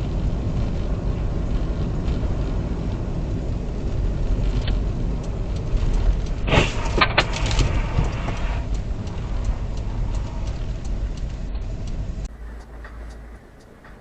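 Steady low rumble of a car driving, with a short burst of sharp knocks and clatter about six and a half seconds in. Near the end the rumble cuts off to a quieter scene with faint regular ticking.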